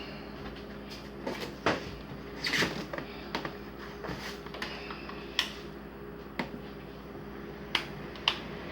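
Scattered clicks and knocks of a plastic ice cooler and its fittings being handled and put in place, with several sharp clacks, over a faint steady hum.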